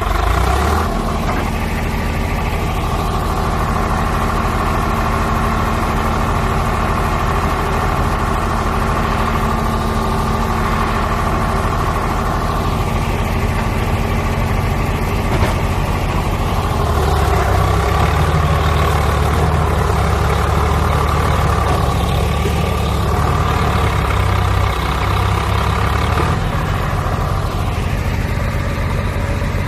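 Diesel engine of heavy farm machinery running steadily; its low note grows heavier a little past halfway and eases back about three seconds before the end.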